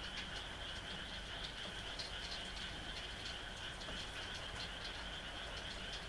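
A night chorus of frogs calling continuously, many overlapping calls forming a steady, high trilling drone with quick chirps scattered through it, over a soft hiss of rain.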